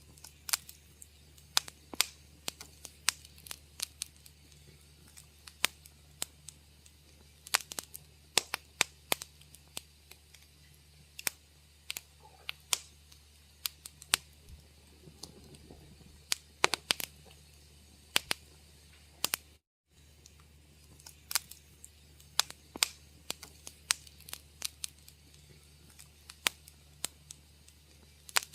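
Wood fire crackling in a fireplace: irregular sharp pops and snaps, several a second in clusters, over a steady low hum. The sound cuts out briefly to silence a little under twenty seconds in.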